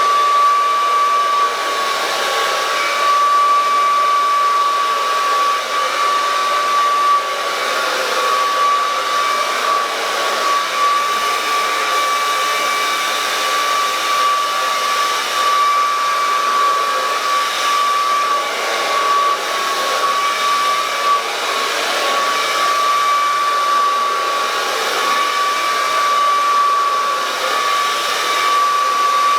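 Handheld hair dryer blowing continuously, a steady rush of air with a high whine from its motor and fan, the airflow wavering a little as it moves through the hair.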